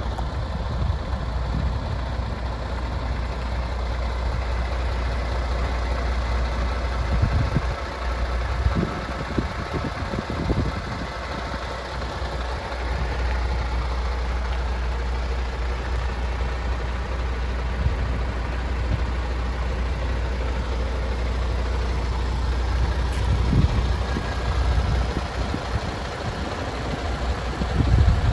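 MAN TGX 26.470 tractor unit's 470 bhp Euro 6 diesel engine idling steadily, with a few short low thumps.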